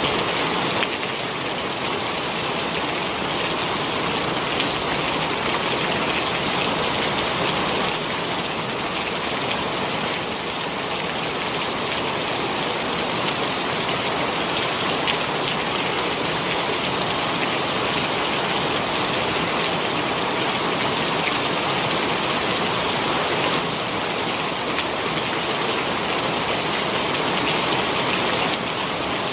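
Heavy rain pouring down, a steady, dense hiss of drops hitting surfaces.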